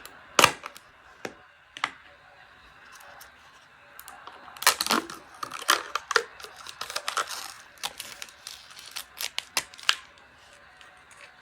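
Sharp clicks and crinkling of packaging being handled and opened, in irregular clusters, busiest in the middle stretch.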